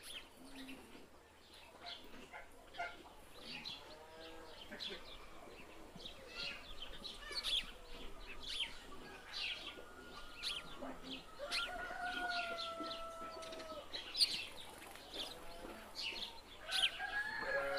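Small birds chirping over and over, with a chicken calling now and then, including one long drawn-out call a little past the middle.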